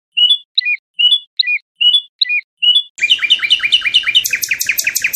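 A songbird singing one phrase: a run of repeated two-part whistled notes, about two a second, then from about three seconds in a fast, louder trill of rapid notes that rises higher near the end.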